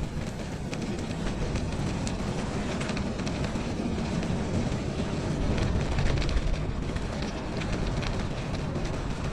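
Steady low rumble of wind and tyres while riding a bicycle on a snowy trail, with scattered light clicks and rattles from the bike.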